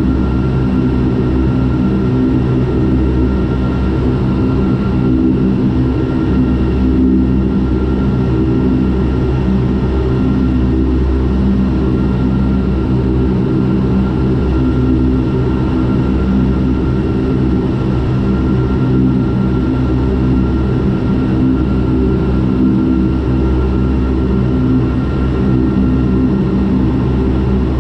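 Turboprop airliner's engines and propellers droning steadily in flight: a deep hum with a stack of steady low tones and a fainter high whine above them.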